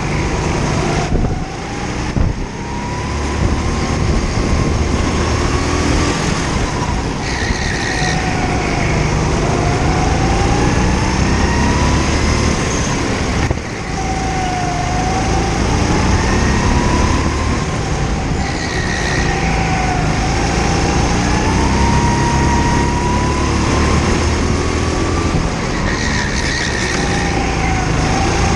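Rental kart engine heard from on board, its pitch climbing under acceleration and dropping off again several times as the kart laps. The engine runs over a steady noisy rush.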